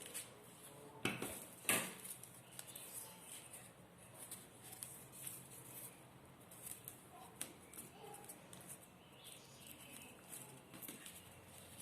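Paper being handled, rustling and crinkling in short, irregular bits, with two sharper, louder crackles about one and two seconds in and fainter rustles after.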